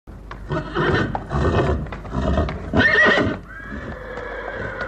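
An animal calling: a string of loud calls over about three seconds, then a quieter held note.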